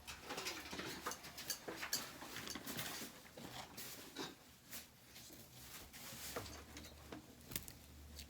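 Small handling noises from hands-on work in a small room: scattered light clicks, taps and rustles at an uneven pace, over a faint low hum that fades in and out.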